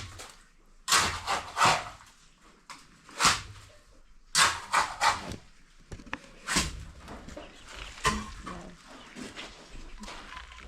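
Trowel scraping and spreading wet cement in a dozen or so quick, irregular strokes.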